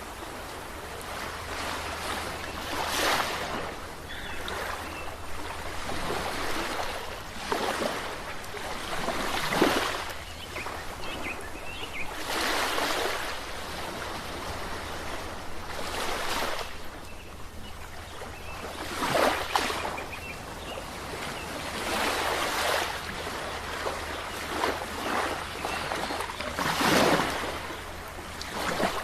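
Ocean waves breaking and washing in, swelling louder every three to four seconds, over a steady low rumble of surf.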